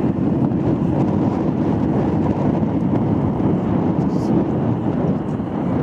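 Steady low rumble of an airliner in flight, airflow and engine noise, with no breaks or changes.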